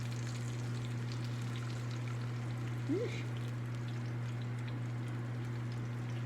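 Faint crackling sizzle from a hot pan of honey-garlic chicken just out of the oven, over a steady low hum, with a brief rising squeak about three seconds in.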